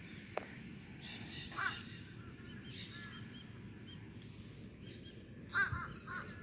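Crows cawing: a short call about one and a half seconds in and a louder one near the end, with faint bird chirps in between.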